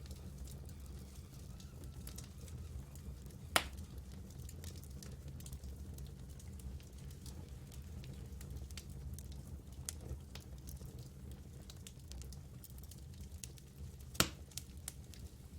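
Campfire crackling: scattered small ticks and snaps over a steady low rumble, with two louder sharp pops, one about three and a half seconds in and one near the end.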